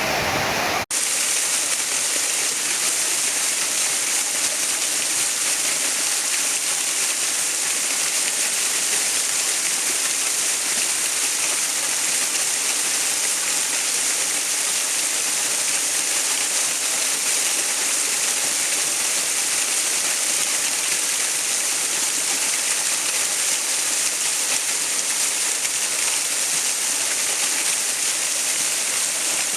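Rushing water: a steady, even hiss of falling water. It cuts out for an instant about a second in, then carries on unchanged.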